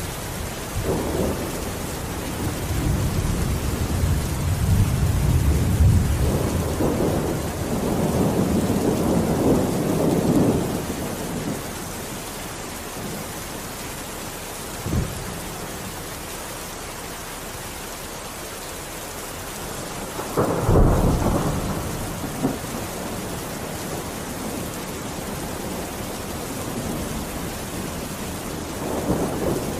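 Steady rain with thunder: long low rumbles through the first ten seconds or so, a short sharp clap about fifteen seconds in, and a louder crack rolling off a little after twenty seconds, with another low rumble near the end.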